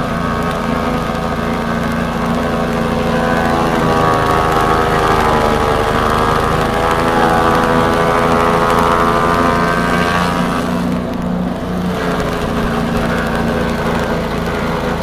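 Engine-driven elephant grass chopper running continuously, its engine pitch sagging about a third of the way in and then climbing again, with a brief dip near the end.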